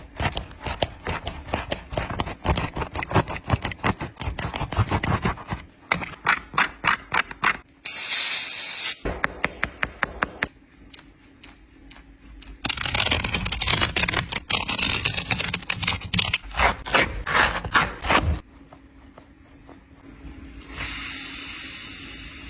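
Close-up handling of a pair of sneakers and their packaging: dense crinkling, clicking and scraping, broken by short stretches of hiss near the start of the second third and again near the end.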